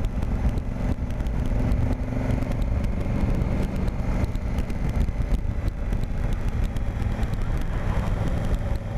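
Honda Africa Twin's parallel-twin engine running at a steady cruise while riding, holding an even pitch throughout.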